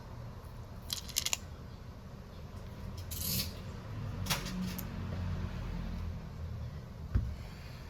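Small clicks and a short scrape from hand tools and phone parts being handled during a smartphone screen replacement, over a low steady hum, with a dull knock near the end.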